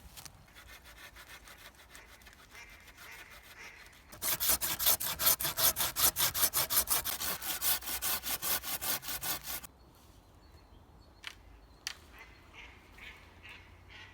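Hand saw cutting wood: faint strokes at first, then about five seconds of loud, quick, even strokes, about four a second, that stop suddenly. A few light knocks follow.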